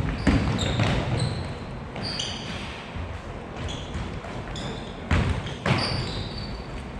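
Basketball game in a gym: sneakers squeaking on the court floor in short, high-pitched chirps, with a few heavy ball bounces or thuds near the start and about five seconds in.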